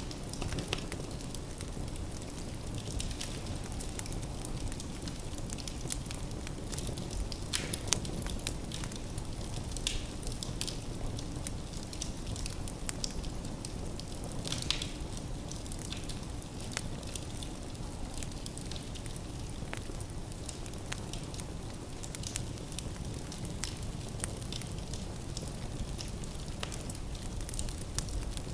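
Wood fire burning in a fireplace: a steady low rumble of the flames with irregular crackles and pops from the burning logs, a few sharper pops standing out.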